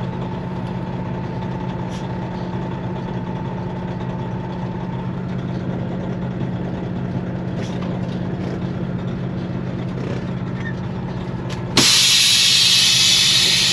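Semi-truck diesel engine idling steadily, then near the end a sudden loud hiss of air from the truck's air brakes that lasts about two seconds.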